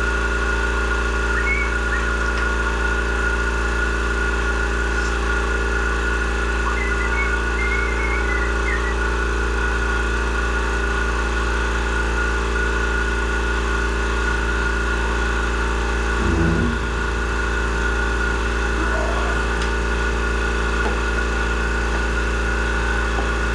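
Honda HRR216 push mower's small engine running steadily at an even speed, warming its oil before an oil change. A short low knock sounds once, about two-thirds of the way through.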